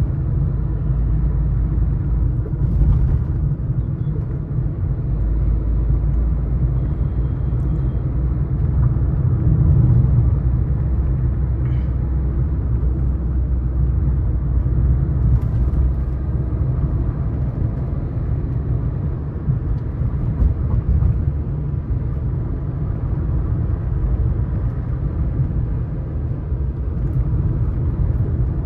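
Suzuki S-Cross 1.3 DDiS diesel car driving over a rough, broken track, heard from inside the car. A steady low rumble of engine and tyres, with a few faint knocks.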